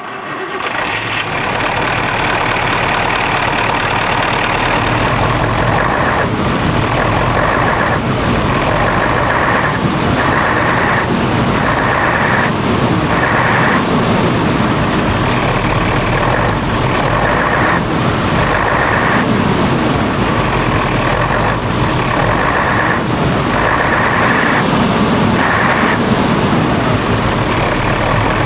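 Mercedes-Benz biturbo V8 turbodiesel of a Neoplan double-decker coach running steadily with a deep, dense engine sound. A higher tone switches on and off about once a second through much of it.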